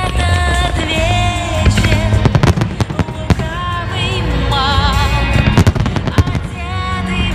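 Fireworks bursting and crackling in quick irregular bangs over loud melodic music.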